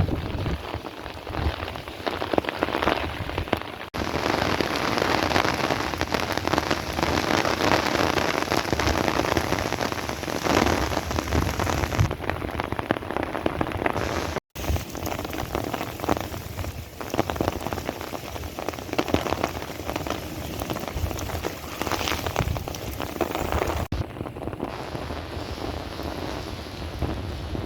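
Steady rain falling and spattering on surfaces, recorded on a cellphone; the rain noise jumps abruptly louder about four seconds in and changes again a few times, with a brief dropout near the middle.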